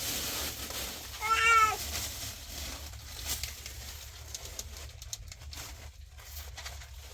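An animal's single short call about a second in, its pitch rising then falling, followed by faint clicks and rustling.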